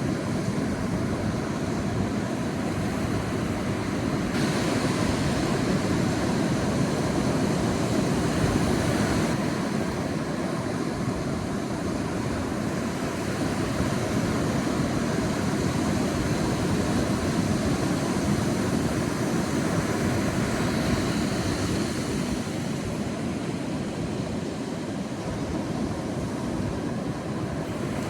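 Sea surf washing on a beach: a steady rushing noise that swells and eases, with a brighter hiss between about four and nine seconds in.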